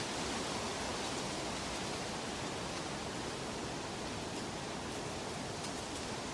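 Steady rushing water: an even, unbroken hiss with a few faint ticks near the end.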